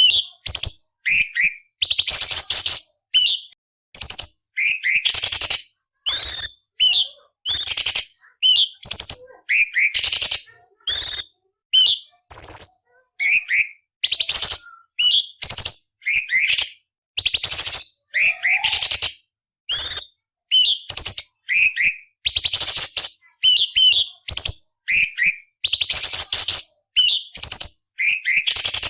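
Orange-bellied leafbird (cucak cungkok) singing a fast run of short, separate phrases, about two a second: harsh, raspy chatter notes mixed with quick downslurred whistles.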